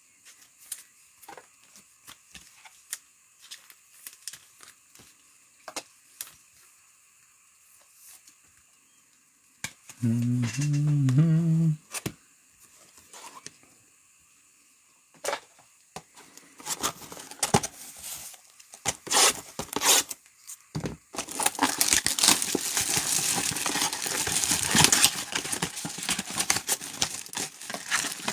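Foil trading-card pack wrappers tearing open and crinkling, loud and dense through the last several seconds, after scattered light clicks of cards and packaging being handled.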